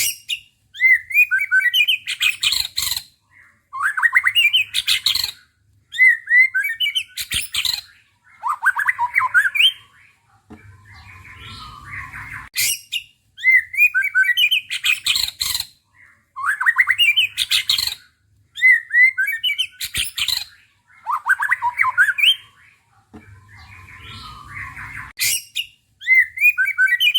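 A caged songbird singing loud, rapid bursts of chattering, squawky song, one phrase roughly every two to three seconds with short pauses between; the run of phrases repeats identically about halfway through, as if looped.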